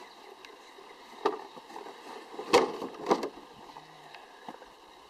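Three sharp clunks, about 1.3, 2.6 and 3.2 seconds in, the middle one loudest, with no engine running.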